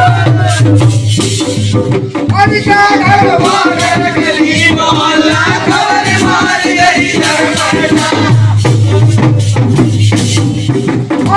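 Indian Holi folk music (lokgeet): a drum beat with jingling, rattle-like percussion throughout, and a wavering melodic line in the middle stretch.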